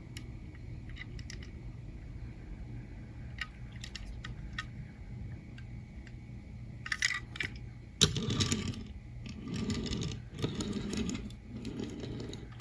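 Small clicks and light rattles from a diecast toy van being turned over in the hands, with louder rubbing and handling noise in the second half.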